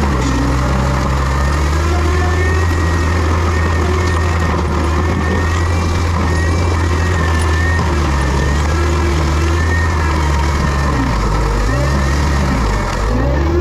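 Heavy diesel land-clearing machine running steadily under load, its low engine drone constant, with a faint wavering whine above it.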